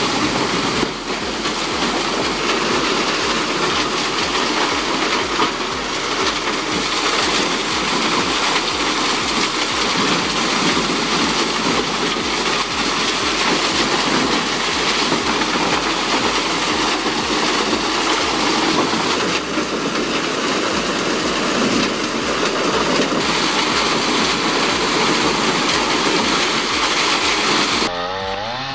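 Truck-mounted Biber wood chipper running, a loud steady din of its chipper under load.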